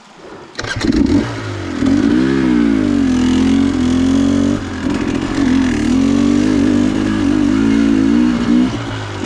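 Dirt bike engine starting about half a second in, then revving and running under throttle, its pitch rising and falling with short dips.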